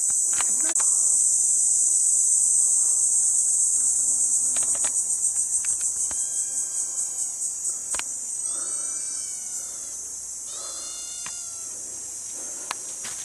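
Loud, high-pitched insect chorus. It holds steady, then breaks into a rapid pulsing rhythm of about four to five beats a second near the middle and fades toward the end.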